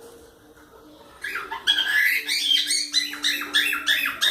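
Cockatiels chirping and calling, a fast string of short notes that bend up and down in pitch, starting about a second in.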